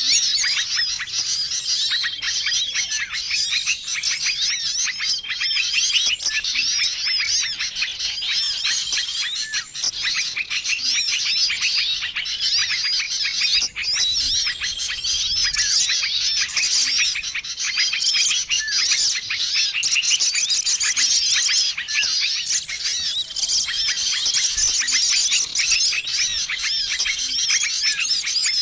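Bird-lure recording of many small songbirds calling at once: a dense, busy chorus of chirps and twitters, with one short steady whistled note repeating every two to three seconds.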